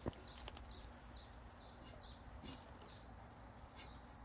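A bird calling faintly: an even series of short, high, falling notes, about two or three a second. A single soft click right at the start.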